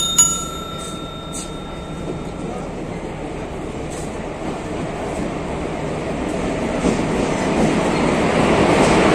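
Indian Railways express train, led by an electric locomotive, pulling into the platform and passing close by, its rumble of wheels on rail growing steadily louder. A short chime rings once at the very start.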